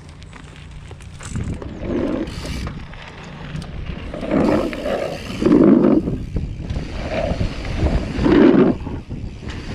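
Several loud, drawn-out yells, strongest about four and a half, six and eight and a half seconds in, over a low rumble of wind on the microphone.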